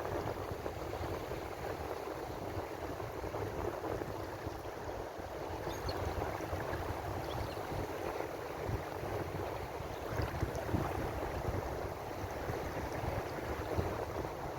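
Ocean waves washing in a steady, continuous rush, with only small swells in loudness.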